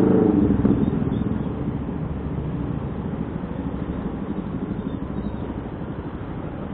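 Motor vehicle engines running in slow traffic: a steady low rumble with fine rapid pulsing that slowly fades.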